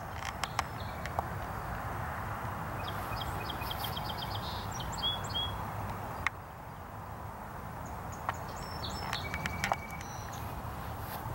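Outdoor ambience of a steady background hush with birds chirping: a quick run of short high notes in the middle and a few more calls near the end. A handful of sharp clicks stand out above it.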